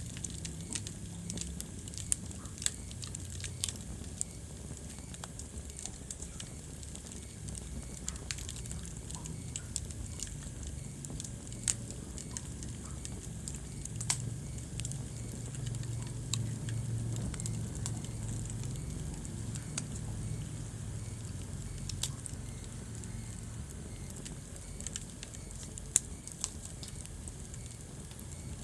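Wood fire burning in a fireplace, crackling with irregular sharp pops over a low, steady rumble.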